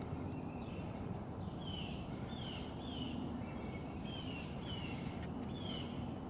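A bird chirping a run of short, falling notes, about two a second, over a steady outdoor background hiss.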